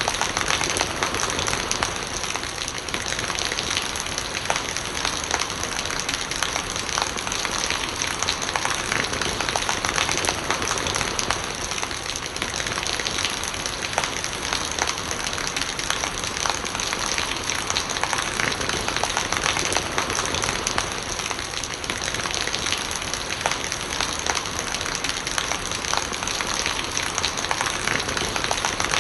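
Steady rain falling, a dense patter of drops with rainwater gurgling as it runs.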